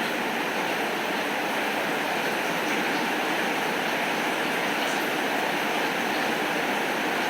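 Heavy rain falling steadily, an even hiss with a few faint ticks of drops.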